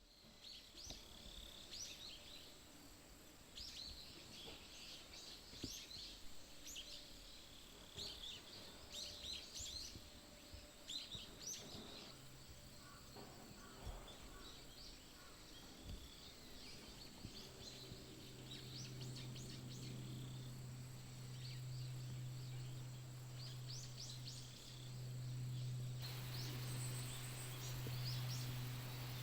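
Wild birds chirping and calling in short, scattered phrases over faint outdoor ambience. A low steady hum comes in about twelve seconds in and grows stronger from about eighteen seconds.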